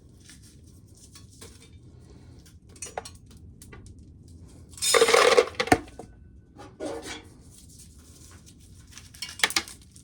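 Dry shelled corn kernels clattering against a metal container in short, irregular rattles, the loudest about five seconds in, with scattered single clicks between.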